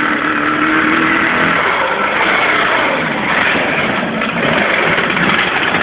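Kawasaki ZX-10 inline-four engine revving hard and steadily, held at high rpm near its rev limiter.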